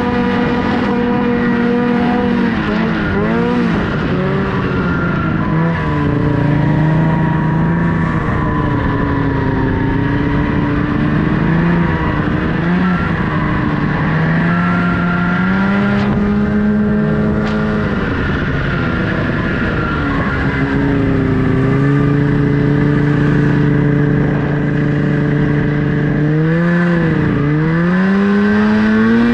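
Snowmobile engine running under a rider, its pitch rising and falling as the throttle is worked. Near the end the pitch dips sharply, then climbs again.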